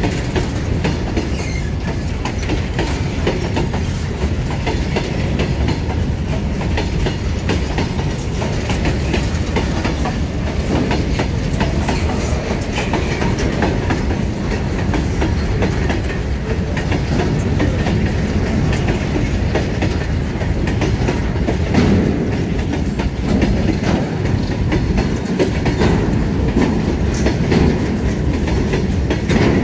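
Long goods train of covered wagons rolling past close by, a steady rumble with the wheels clattering over the rail joints in a continuous clickety-clack.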